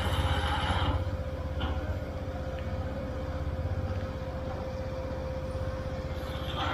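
Motorcycle engine idling with a steady low pulsing, with a brief rushing noise in the first second and again near the end.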